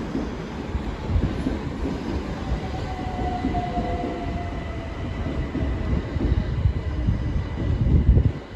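Southeastern Class 375 Electrostar electric multiple unit running close by along the platform: a heavy rumble of wheels and bogies with irregular thumps over the rail joints and a faint steady whine over the top. It grows louder towards the end, then drops suddenly.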